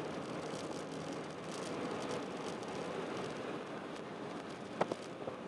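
Honda Jazz 1.3-litre four-cylinder engine running steadily under way, heard from inside the cabin, with a couple of sharp knocks near the end.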